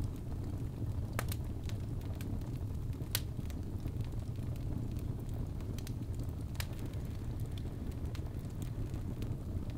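Birch logs burning in a fireplace: a steady low rumble of flame with scattered sharp crackles and pops, the loudest a few seconds apart.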